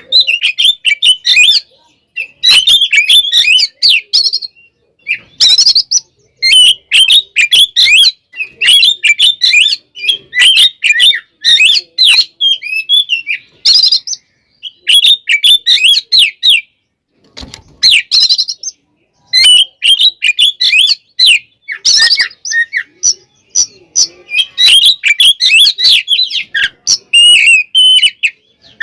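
Oriental magpie-robin (kacer) singing loud, fast, varied song in phrases a second or two long with short pauses between them, mixed with sharp chattering notes: the agitated full song of a bird in a fighting mood.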